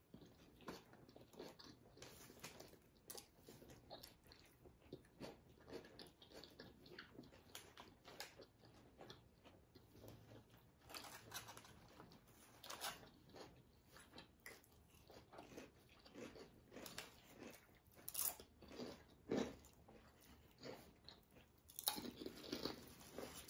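Faint close-up chewing and biting of a sub sandwich and potato chips: a long run of short, irregular smacks and crunches.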